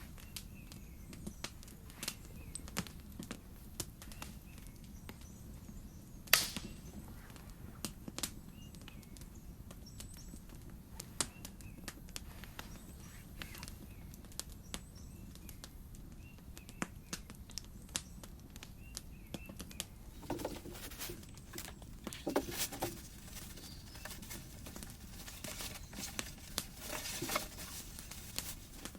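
Campfire crackling with irregular sharp pops, one louder pop about six seconds in. From about twenty seconds in, clusters of louder knocks and rustling join the crackle.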